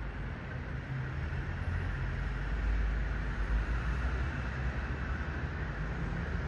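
Steady low outdoor rumble with a hiss over it, unchanging throughout.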